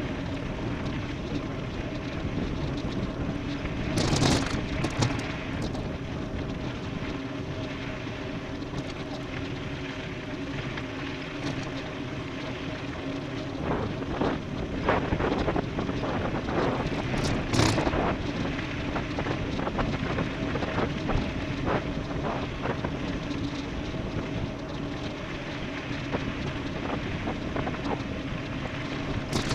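Wind rushing over the microphone and tyre noise from an e-bike riding fast downhill, with a faint steady hum underneath. A few sharp knocks and rattles come from bumps, around four seconds in and again in the second half.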